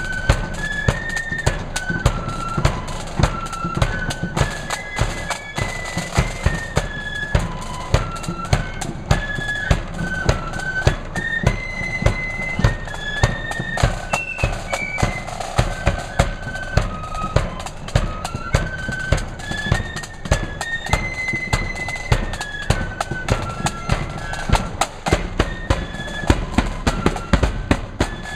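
Marching flute band playing a tune: the flutes carry a stepping melody over rapid, steady snare drum strokes and bass drum beats.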